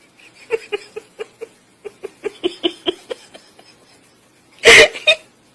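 A dog making a run of about a dozen short hiccup-like sounds, irregularly spaced at about four a second, then one loud sharp sneeze-like burst near the end.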